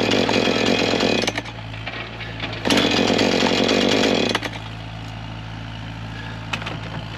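Husqvarna two-stroke chainsaw running at full throttle twice, about a second and a half each time, dropping back to idle in between and afterwards.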